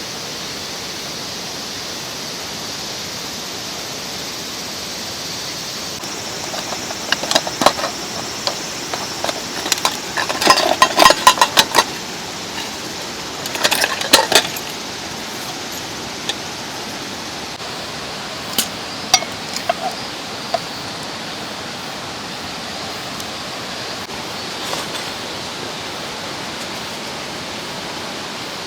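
Mountain stream running steadily, with bursts of sharp clinks and knocks of camp gear being handled, the densest about halfway through and a few more single clinks a little later.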